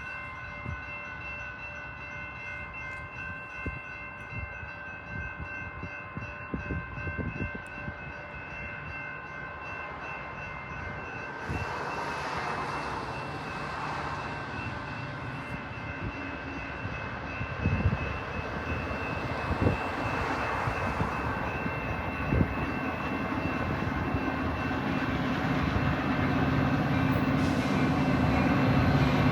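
Metra commuter train approaching, its rumble and diesel locomotive engine growing steadily louder toward the end, under a steady high ringing tone.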